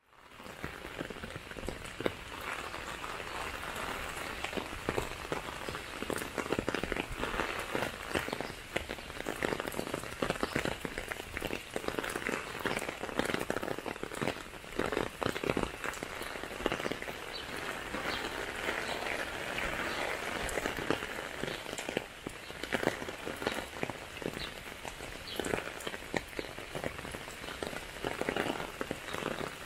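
Heavy rain falling on an umbrella overhead: many sharp drop hits over a steady hiss of a downpour on wet pavement.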